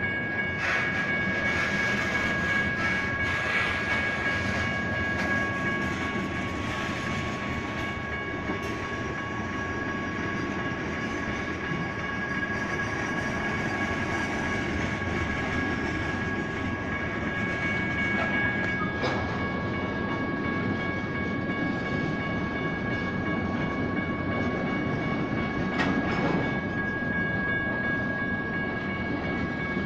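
BNSF freight train rolling through a grade crossing: a steady rumble of wheels on rail with a few sharp clanks. Over it, the crossing's General Signals Type 1 electronic bells keep ringing with a steady high tone.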